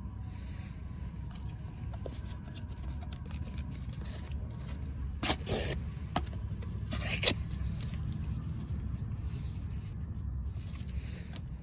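Two short scrapes about two seconds apart, with a few faint clicks, over a steady low rumble.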